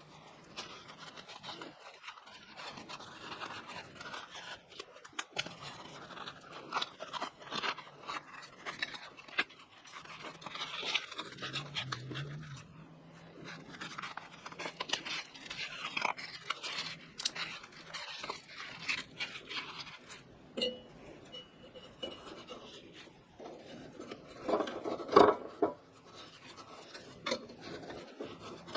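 Kerosene heater being taken apart or put back together by hand for a wick replacement: irregular scraping and rustling with many small clicks and knocks of metal parts, and one louder knock about 25 seconds in.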